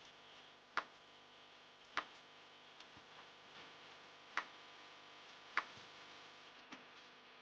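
Sharp, brief clicks at uneven intervals over a faint steady hiss: four louder ones a second or more apart, with a few fainter ones between.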